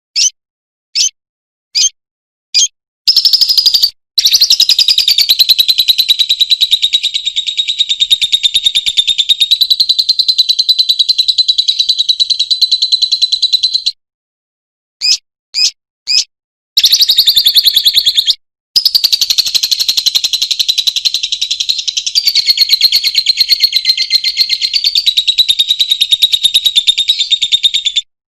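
Lovebird giving a few short, high chirps, then two long, fast-chattering trills of about ten seconds each, separated by a short pause with more chirps: the long 'ngekek' song that lovebird keepers prize.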